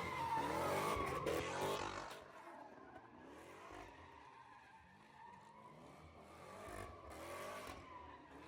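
Car tyres squealing as cars skid and spin, a wavering screech that is loudest in the first two seconds, fades through the middle and swells again near the end.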